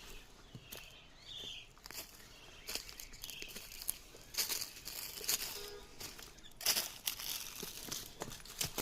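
Small birds chirping in short, separate calls, mixed with louder crackling rustles that come and go, the loudest cluster about four to seven seconds in.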